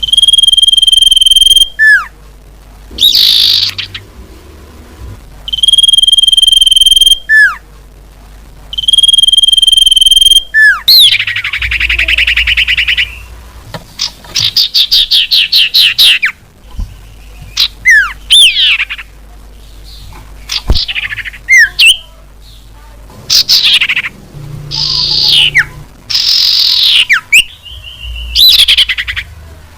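Common iora (sirtu/cipoh) song played as a bird-lure recording. Three long, steady, high whistles, each ending in a quick falling note, are followed by rapid rattling trills and a run of varied sweeping chirps.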